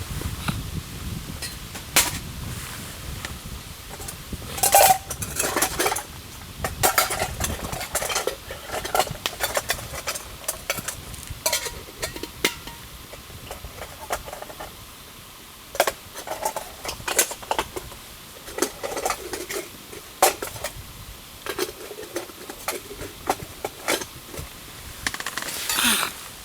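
Camp cookware and utensils clinking and clattering in irregular knocks, a few ringing briefly like metal, with a louder clatter near the end.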